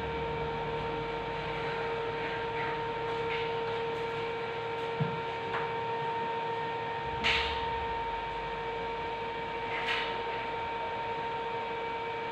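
A steady electrical hum, with three short knocks spread through it.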